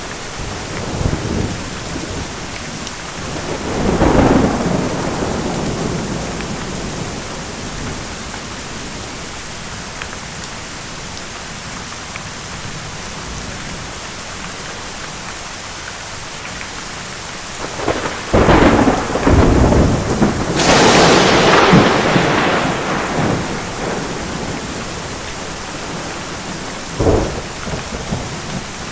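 Steady heavy rain with thunder: a rumble about four seconds in, a long loud crackling peal from about 18 to 23 seconds, and a short sharp clap near the end.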